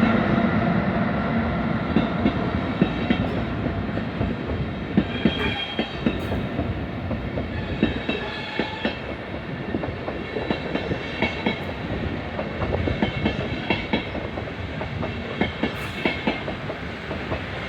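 Train running through a station, its wheels clacking irregularly over rail joints and points. A steady hum at the start fades away.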